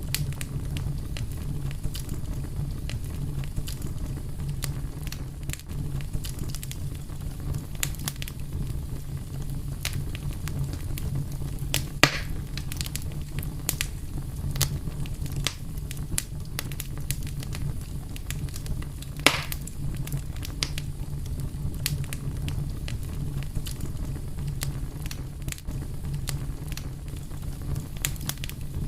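Wood fire burning steadily with a low rumble and frequent scattered crackles and pops, two louder pops about twelve and nineteen seconds in.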